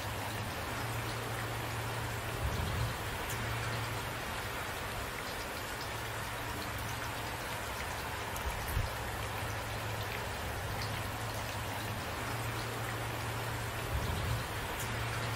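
Steady rain falling, with three brief low thumps: about two and a half, nine and fourteen seconds in.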